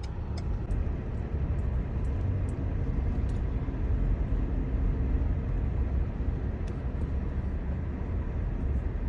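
A car driving: a steady low rumble of engine and road noise with no change in pace.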